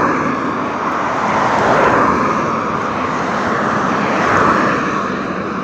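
Road traffic passing close by on a highway: a steady rush of tyre and engine noise that swells as vehicles go past, about three times.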